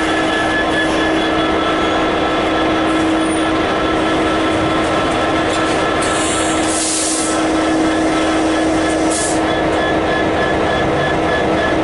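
A freight train running past at close range, a steady loud rumble of wheels on rail with a constant droning tone, broken by two short hisses about six and nine seconds in.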